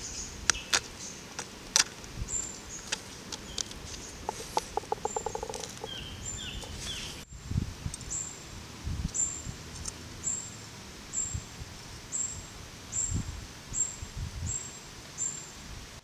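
Forest birds calling: sharp clicks, a fast rattling series and a few chirps in the first half, then a short, high, falling chirp repeated about once a second in the second half. Soft low thumps sit underneath.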